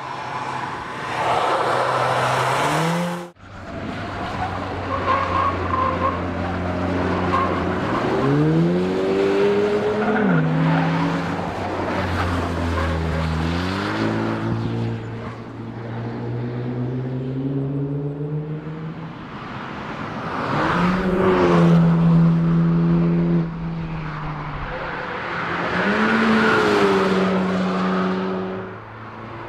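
Volkswagen Golf R test car's turbocharged four-cylinder engine accelerating hard on a race track, its pitch climbing through each gear and dropping at the upshifts, in several passes cut together.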